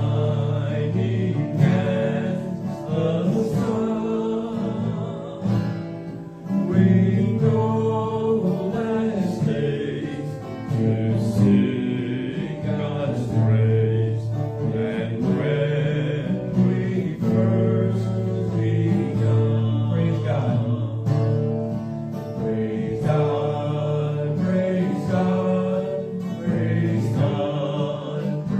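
Group singing a gospel hymn to guitar accompaniment, steady throughout.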